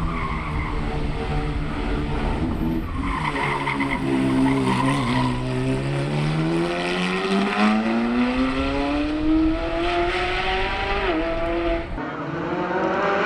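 Race-driven sports car engine: the revs fall for the first few seconds as it slows, then climb steadily under hard acceleration, with a brief gear-change dip near the end, over tyre squeal. The sound breaks off sharply just before the end.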